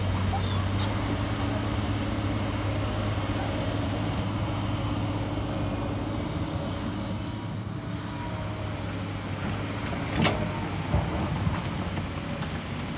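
Excavator diesel engine running steadily, with two or three sharp knocks near the end.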